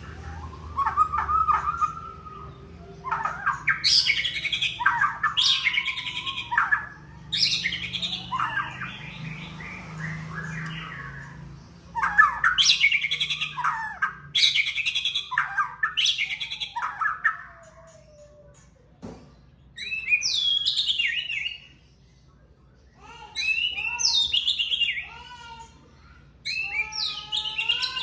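White-rumped shama singing in loud bursts of varied, sweeping whistled phrases, with short pauses between the bursts.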